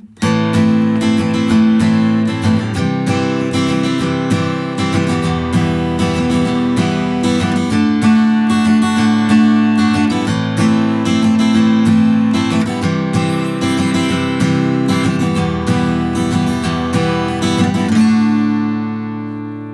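Taylor Builder's Edition 324ce acoustic guitar strummed in a one-bar pattern through the chords A minor, C major, E minor and D major. Near the end the last chord is left to ring and fades.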